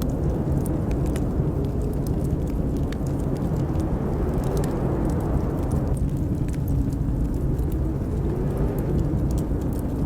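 Blizzard wind blowing as a steady low rumble, with a faint howl that rises and falls, and the scattered crackles and pops of a wood fire burning in a fireplace.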